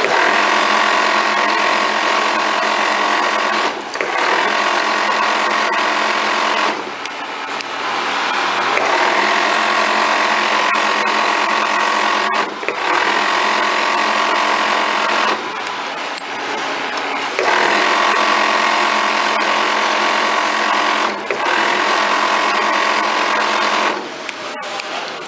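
Tecnomaq strobel-type shoe sewing machine running at speed, stitching in long runs of several seconds, with a few brief slowdowns or stops between runs.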